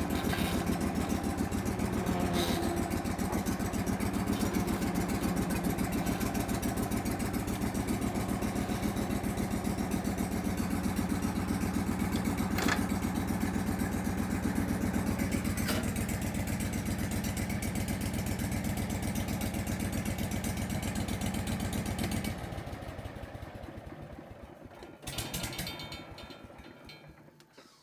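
Hurricane ride-on debris blower's gas engine running steadily, then shut off about 22 seconds in and winding down to a stop, with a short clatter a few seconds later.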